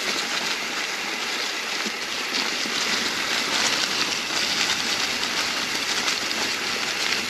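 Mountain bike rolling down a singletrack trail covered in fallen autumn leaves: a steady rushing noise of the tyres running through the leaves and over the ground.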